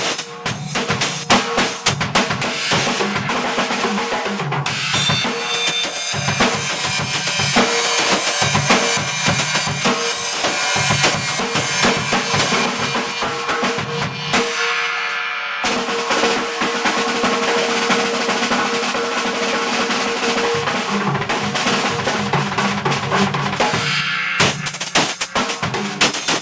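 A drum kit played in a free jam: rapid bass-drum and snare hits throughout, under a steady cymbal wash over most of it. The cymbals cut off briefly twice, once a little past halfway and once near the end.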